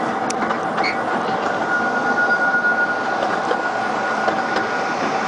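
Narrow-gauge tourist train running along its track, heard from an open carriage: a steady rumble and rattle of wheels and cars. A thin high squeal sets in about a second in and holds until near the end, as the wheels take a curve.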